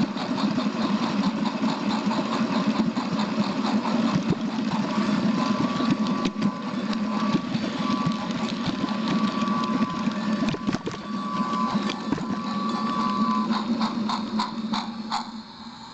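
A small train's engine running steadily with a rapid pulsing beat. A steady high tone sounds over it from about five seconds in until about thirteen seconds. Near the end the running fades, with a few clicks.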